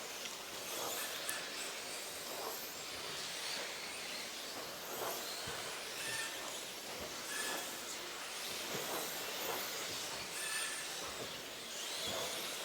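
Modified-class electric RC off-road trucks racing around the track: faint high motor whines that come and go over a steady hiss.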